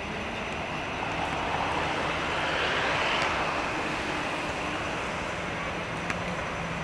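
Airbus A320 jet passing on its landing approach: a broad rushing engine noise that swells to its loudest about three seconds in, then eases off.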